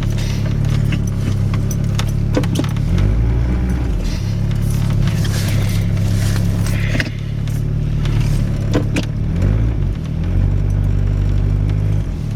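1991 Chevy S10's 2.5-litre four-cylinder engine in drive, revving up and dropping back several times while the pickup's wheels slip in deep snow and the truck stays stuck. There is a scatter of sharp clicks and crunches along with it.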